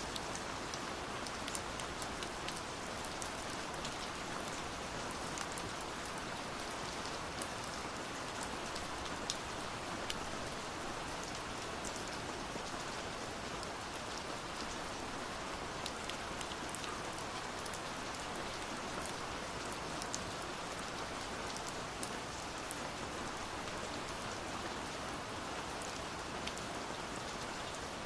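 Steady rainfall, an even hiss with scattered sharp ticks of individual drops.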